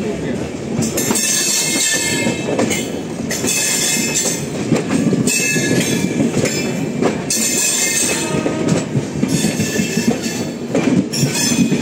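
Two passenger trains running side by side on adjacent tracks, heard from an open window of one: a steady rumble of steel wheels on rail, with knocks over the joints and brief high wheel squeals that come and go.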